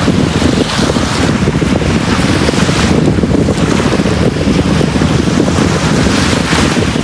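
Sea waves surging onto a beach: a continuous loud surf wash with a deep rumble underneath, swelling a few times as waves break.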